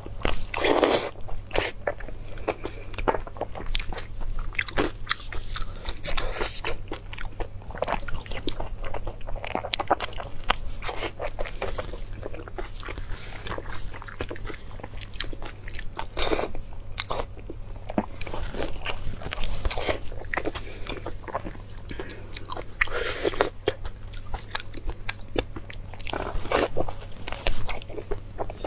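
Close-miked mouth sounds of biting and chewing soft blood sausage: irregular wet smacks and clicks, with louder bites every few seconds. A steady low hum runs underneath.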